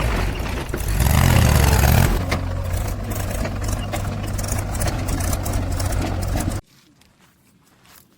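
Heavy diesel engine running, louder for the first two seconds and then steady; it cuts off suddenly near the end, leaving only faint background.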